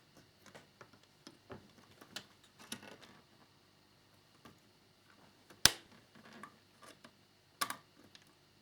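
Light, scattered clicks and taps of plastic model parts and a small screwdriver being handled during assembly, with a sharper click about halfway through and another near the end.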